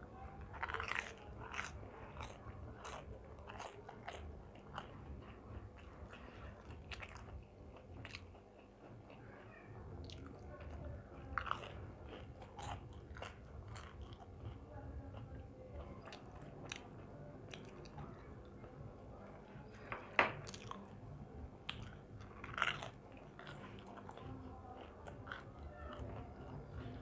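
A person chewing and biting crunchy deep-fried momos (kurkure momos) close to the microphone, with scattered crunches and mouth clicks. Two louder crunches come about twenty seconds in and again two seconds later.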